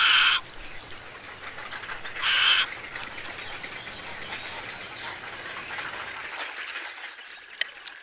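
Two loud bird calls, each under half a second and about two seconds apart, over a steady background of many faint bird calls. The low background rumble drops away near the end.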